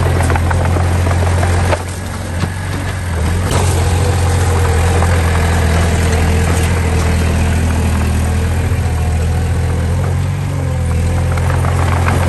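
Diesel engine of heavy earth-moving machinery running steadily with a low drone. It eases off briefly about two seconds in, builds back within a couple of seconds, and dips slightly again near the end.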